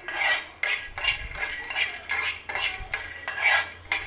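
A spatula scraping and stirring in a frying pan, tossing makhana (fox nuts) in ghee, in quick repeated strokes about two a second.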